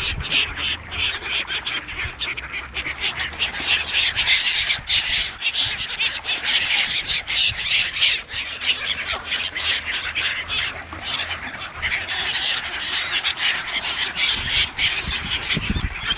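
A flock of ducks quacking and calling, many short overlapping calls at once, with a faint low rumble underneath.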